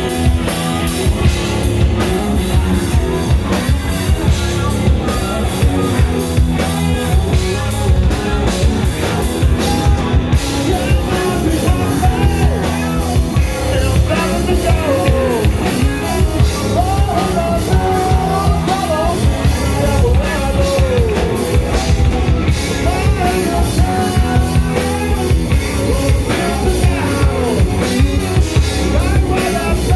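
Live rock band playing loudly: drum kit keeping a steady beat under guitars and bass, with a singer's voice coming in over the band from about a third of the way in.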